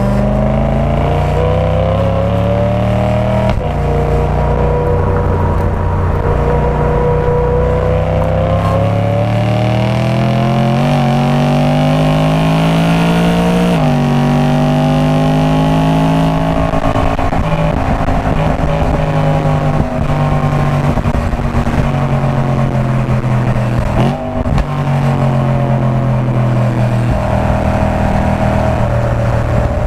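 BMW E92 M3 V8 engine and M Performance exhaust at full throttle on track. The pitch climbs and drops sharply at upshifts about 3.5 and 14 seconds in, eases down as the driver comes off the power, dips briefly near 24 seconds, and climbs again near the end.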